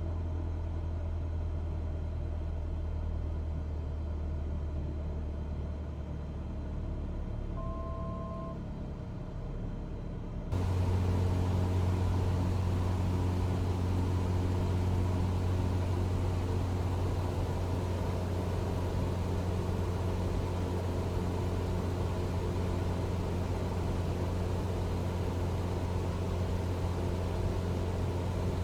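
Cessna 172's piston engine and propeller droning steadily, heard from inside the cabin. About ten seconds in the drone abruptly becomes louder and brighter and stays so; a short faint tone sounds just before that.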